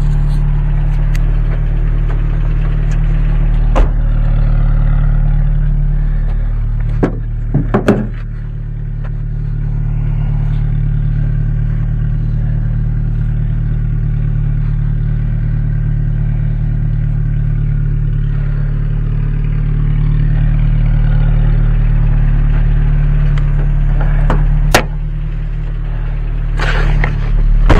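A vehicle engine idling steadily, with a few knocks and clanks from the boat trailer being strapped down and a car door near the end.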